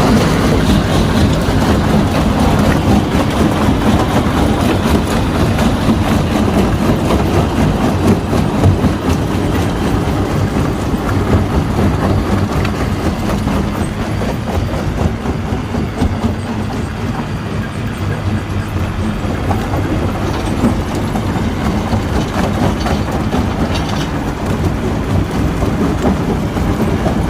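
Stone crusher plant running: a loud, steady low rumble with continuous rattling clatter, easing slightly in the middle.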